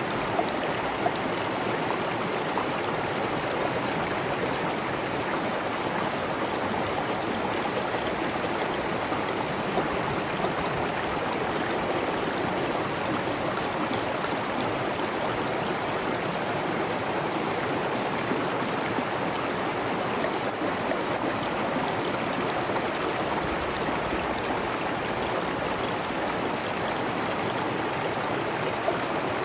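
A stream of water running steadily, with a constant rushing and small splashes.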